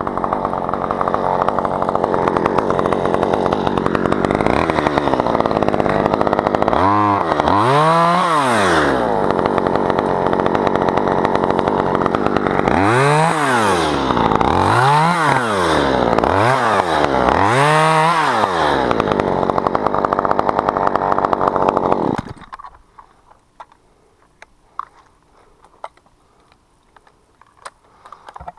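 Two-stroke chainsaw running, its engine speed rising and falling about five times, then shutting off about three-quarters of the way through.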